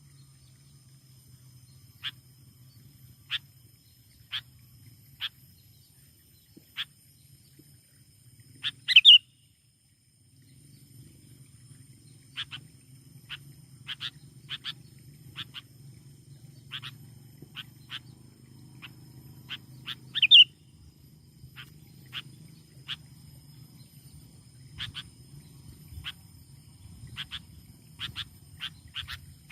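Sooty-headed bulbul (kutilang) calling: short, sharp chirps every second or so, with two louder calls about nine seconds in and about twenty seconds in.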